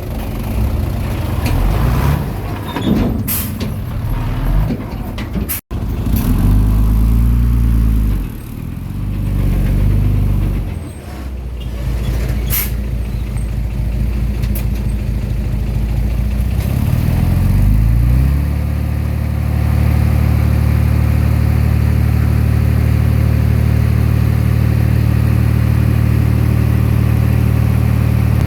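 Komatsu D20P bulldozer's diesel engine working under changing load, its pitch rising and falling, with a few sharp clanks in the first seconds. Near the two-thirds mark it revs up and settles into a steady, even run.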